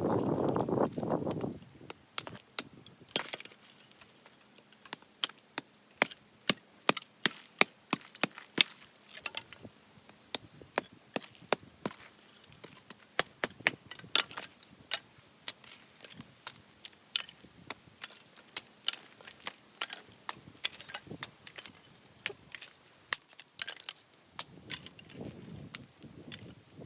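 Hatchet chopping firewood into kindling: a long run of sharp wooden knocks, about one to two a second, after a brief rustle at the start.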